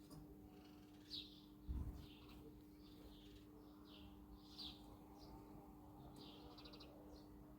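Small birds chirping: short high chirps that dip in pitch, repeated every second or so over a faint steady hum. A brief low thump comes about two seconds in.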